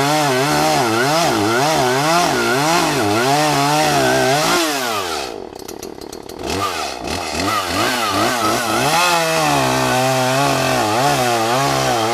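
Chainsaw cutting into a tree, its engine pitch rising and falling over and over as the chain loads and frees. About five seconds in it drops back toward idle for a second or so, then revs up again and keeps cutting.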